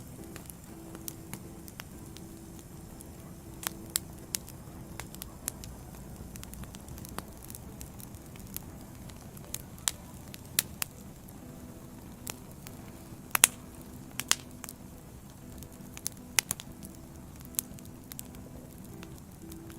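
Burning firewood crackling: a steady low rush of flame with sharp pops and snaps at irregular intervals. The loudest snaps come about two-thirds of the way through.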